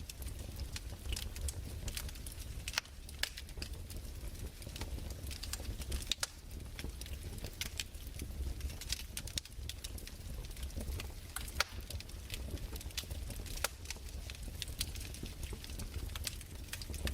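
A fireplace fire crackling: irregular sharp pops and snaps over a steady low rumble.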